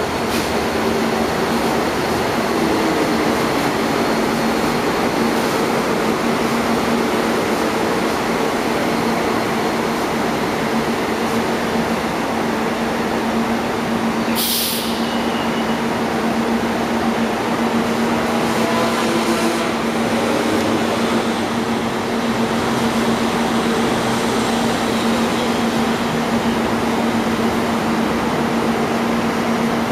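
Urban rail train running, a steady rumble with a constant electric hum. A brief sharp hiss sounds about halfway through.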